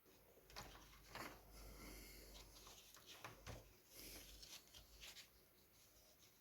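Faint handling noises from small parts being worked on by hand: a few light clicks and knocks with short rubbing and scraping sounds in between.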